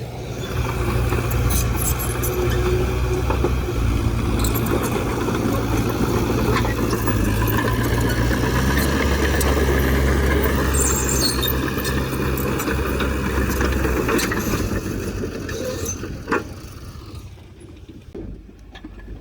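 Heavy earthmoving machine's diesel engine running steadily, its low engine note shifting about halfway through, then fading away near the end, with a single sharp knock shortly before.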